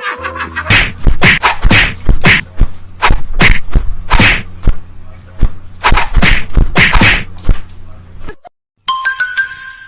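A rapid series of sharp smacks, roughly two a second, over a low steady hum. They stop near the end, and a short chiming jingle follows.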